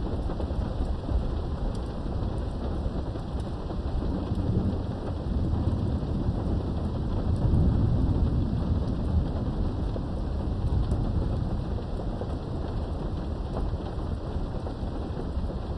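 Steady rain heard through a window, with a low rumble of thunder that swells about halfway through and fades again.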